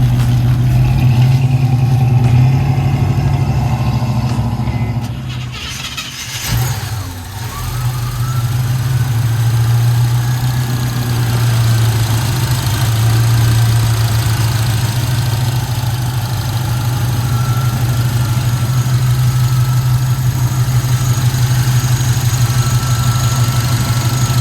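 A 1969 Chevrolet pickup's engine running steadily. The sound drops away and breaks about six seconds in, then the engine comes back and runs on evenly.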